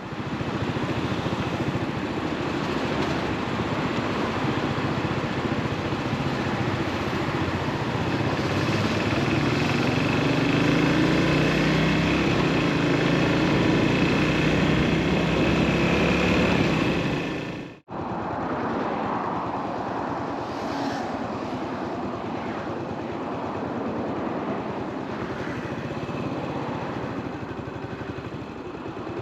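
Yamaha SR400's carbureted single-cylinder four-stroke engine running under way, with wind and road noise, its pitch rising as it accelerates around ten seconds in. The sound cuts off abruptly about 18 seconds in, then carries on steadier and a little quieter.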